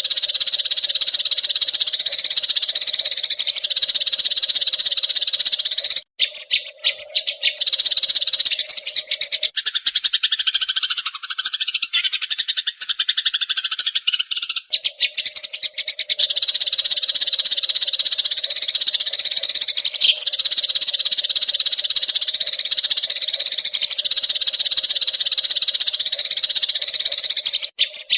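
Eurasian tree sparrows chirping continuously in a dense, busy chatter, changing in character for a few seconds near the middle.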